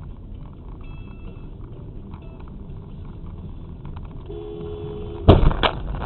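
Steady road and engine noise from a moving car, a two-note car horn sounding for about a second, then a loud collision impact about five seconds in, with a second hit right after it.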